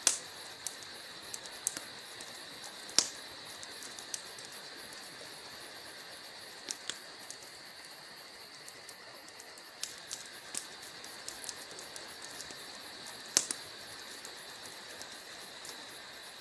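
Wood fire burning in a fireplace: burning logs crackling with irregular sharp pops over a steady hiss, the loudest pops about three seconds in and about three seconds before the end.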